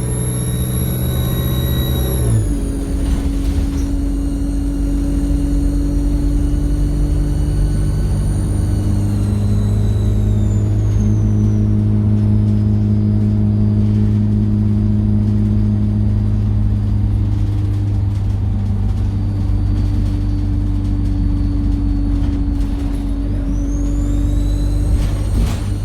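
Alexander Dennis Enviro 200 bus's diesel engine running with its turbocharger whistling high above it. The whistle drops in pitch about two seconds in, glides down and fades away over the next several seconds, then rises again near the end as the engine picks up.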